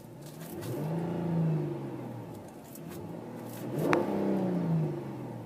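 The 2010 Dodge Charger SXT's 3.5-litre V6 is revved twice. The engine pitch rises and falls each time, and the second rev peaks about four seconds in.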